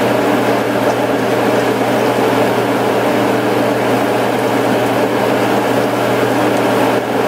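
Onions, garlic and cherry tomatoes sizzling steadily in hot oil in a frying pan as they are stirred, over a steady motor hum like a fan.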